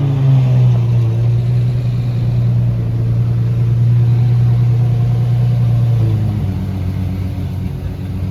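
A car engine running with a steady low note that steps up slightly at the start, holds, and drops back to a lower pitch about six seconds in.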